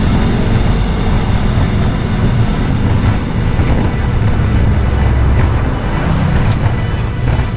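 Wind buffeting a bike-mounted action camera's microphone while riding at speed, a loud steady rumble with some road noise.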